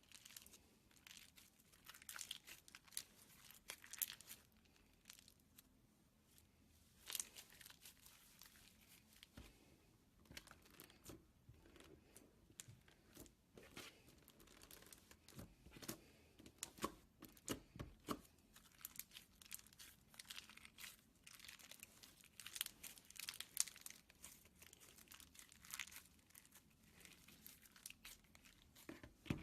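Slime being squeezed and stretched by hand, giving quiet, irregular crackles and little pops.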